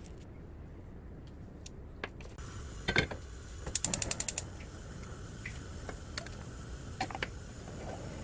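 Sharp mechanical clicks: a knock about three seconds in, then a fast run of about nine clicks, and a couple more single clicks later on.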